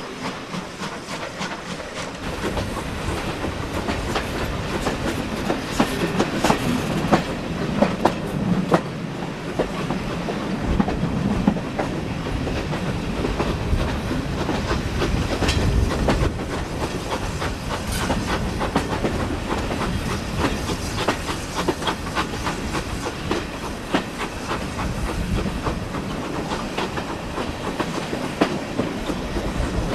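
Steam-hauled passenger train running, heard from the coaches: a continuous rumble with many short clicks and knocks as the wheels pass over rail joints.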